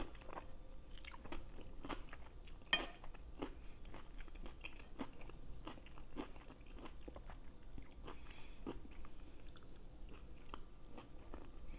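Close-miked eating: chewing and mouth smacks that come as soft, irregular clicks, with one louder click about three seconds in.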